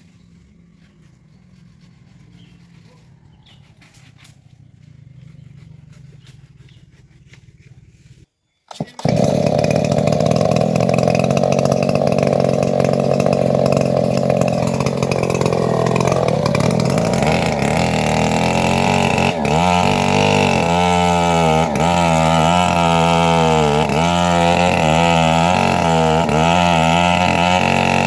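Engine-driven band sawmill running loud and steady, cutting teak, starting abruptly about eight seconds in after faint background sound. From about halfway its pitch wavers up and down roughly once a second.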